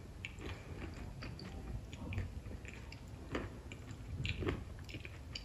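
Close-up mouth sounds of a person chewing a mouthful of dahi puri: quiet wet chewing with scattered small crunches and clicks from the crisp puri shell, a couple of them louder about three and a half and four and a half seconds in.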